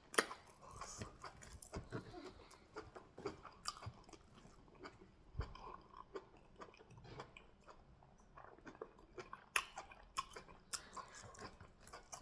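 Close-up mouth sounds of someone eating fufu and goat meat in peanut soup: wet chewing, smacking and sticky clicks, with a few sharper, louder clicks just after the start and again about ten seconds in.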